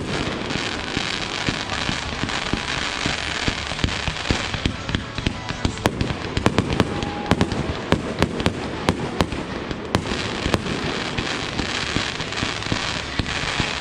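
Fireworks going off in rapid succession: many sharp bangs and crackles over a continuous rumble, with no pause.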